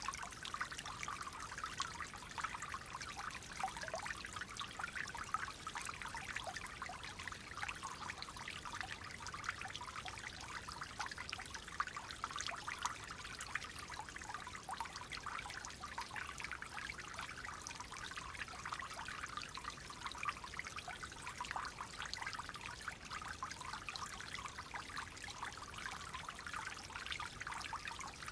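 Clear water flowing in a small stream, a steady trickling babble of many small splashes.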